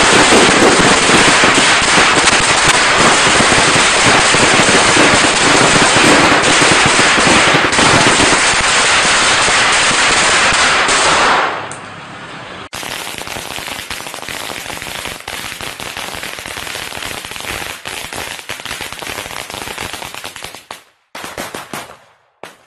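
Long strings of firecrackers bursting in a rapid, continuous crackle of sharp bangs. The first string dies away about eleven seconds in. Another starts a second later, thins to a few scattered pops near the end, and stops.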